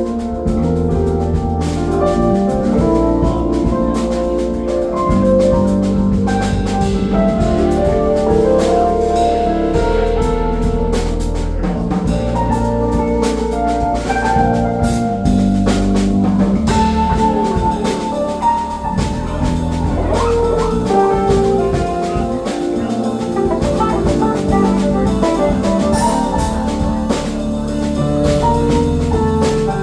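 A live funk band playing, with drum kit, bass and keyboards/organ carrying a continuous groove.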